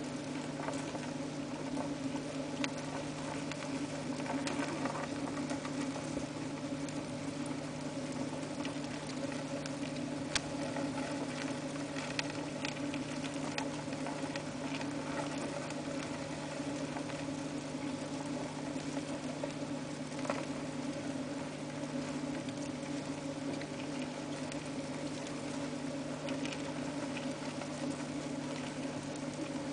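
House crickets scrabbling and crawling in their enclosure, a scatter of small irregular ticks and scratches over a steady low hum.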